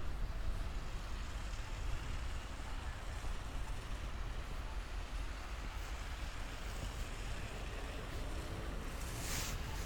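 Wind blowing through a snowstorm, a steady rushing noise with a low rumble of wind buffeting the microphone, and a brief louder hiss near the end.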